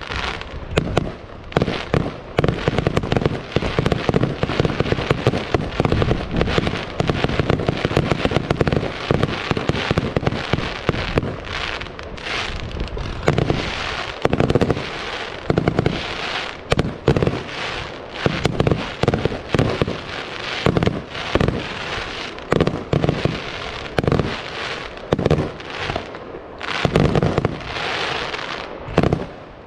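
Fireworks display: a continuous run of shell bursts and sharp bangs, several a second, with a short lull near the end.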